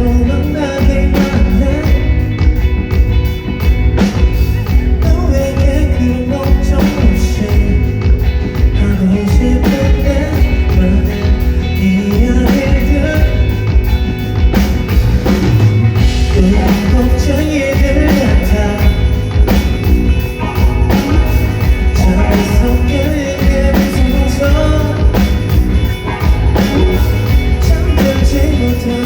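A band playing a rock song live, loud and continuous, with drums and heavy bass under a singing voice.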